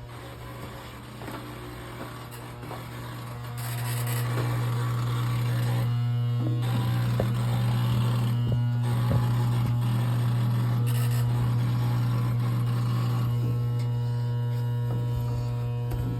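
A steady low electrical buzz that grows louder about three and a half seconds in and holds there.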